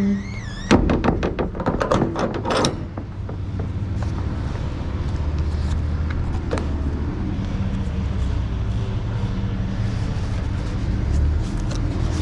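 Truck engine running steadily at a low idle, with a burst of rattling, clattering knocks about a second in that lasts around two seconds.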